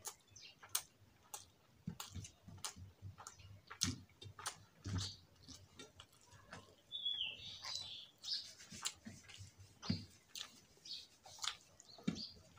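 A person chewing a mouthful of rice and soya-chunk potato curry with the mouth open, making wet smacking clicks at an irregular pace, with a brief louder smack about seven seconds in.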